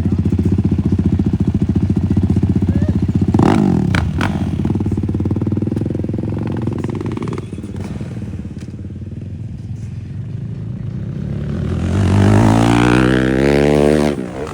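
Motorcycle engine running at a steady speed, then fading away after a short break in the sound about three and a half seconds in. Near the end a motorcycle revs up loudly, its pitch rising, then cuts off sharply.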